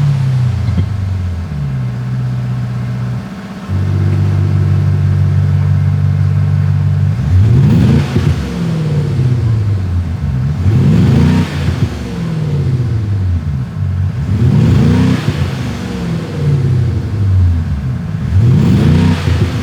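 THOR electronic exhaust speakers playing a synthesized sporty engine sound. It holds a steady idle, then gives four revs that climb and fall back, about one every three to four seconds.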